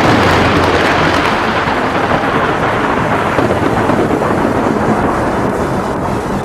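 A sharp thunderclap right at the start, then a long, loud roll of thunder that slowly fades.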